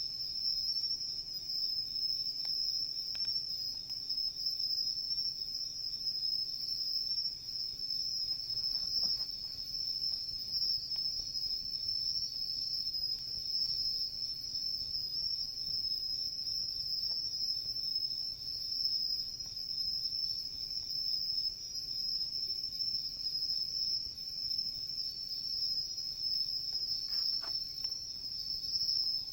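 Crickets chirring in one continuous high-pitched trill, with a few faint crackles from a wood campfire.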